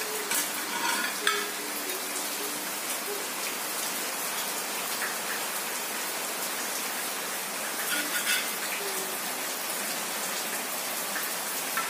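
Steady hiss of rain, with a few brief scrapes and rustles of fried fish being moved with a spatula onto dry leaves near the start and again about eight seconds in.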